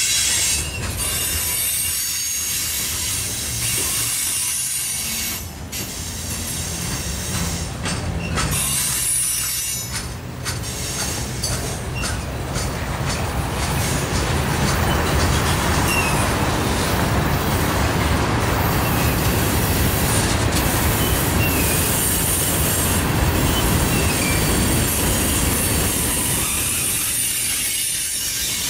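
Freight cars of a long manifest train rolling past: a steady rumble of steel wheels on the rails that grows fuller about halfway through, with sharp knocks and clanks in the first half and a few brief, faint wheel squeals in the middle.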